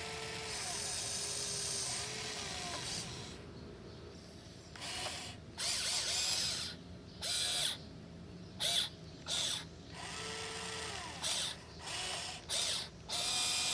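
Electric motors and gearboxes of a 1580 RC excavator whirring. A steady run at first, then short start-stop bursts as the controls are worked.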